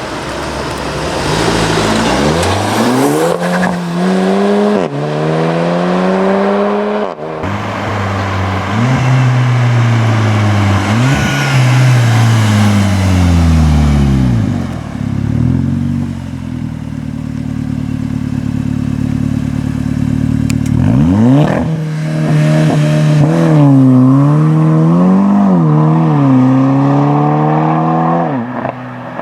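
Volkswagen Golf's turbocharged four-cylinder engine revving and accelerating, its pitch climbing and dropping again and again, with a steadier stretch in the middle. Near the end it is blipped up and down quickly several times.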